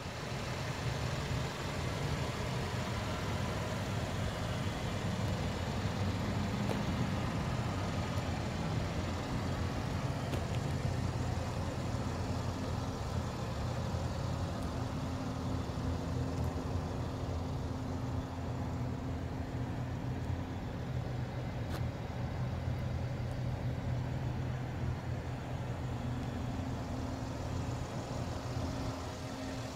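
A 2014 Mercedes-Benz E350's 3.5-litre V6 engine idling steadily.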